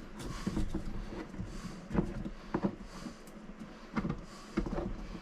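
Scattered knocks, clunks and rustling from hands working around the base of an RV toilet and its water line, a few short handling sounds a second apart.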